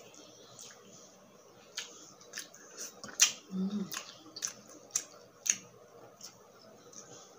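Close-miked chewing of grilled skewered street food: irregular sharp mouth clicks and crunches, a dozen or so scattered through, with a brief low hum about three and a half seconds in.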